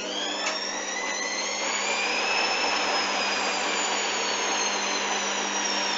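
Hoover washing machine on its final spin: the motor whine rises for about the first two seconds as the drum speeds up, then holds and eases slightly, over a steady hum and the rush of the spinning drum.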